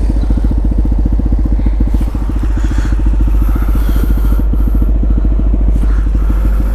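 Motorcycle engine running at a steady cruise, its firing pulses even and unbroken, with low wind rumble on the microphone.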